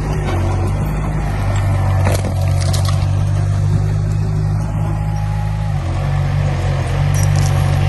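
Heavy construction machine's diesel engine running steadily under load, with a few sharp metallic knocks and a brief change in the engine note about six seconds in.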